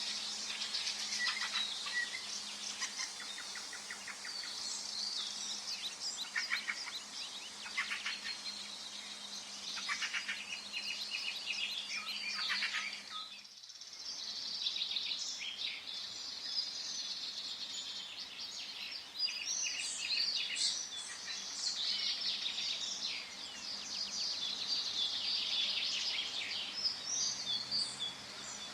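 Forest ambience: several songbirds chirping and trilling at once over a steady background hiss, with a brief dip in the sound about halfway through.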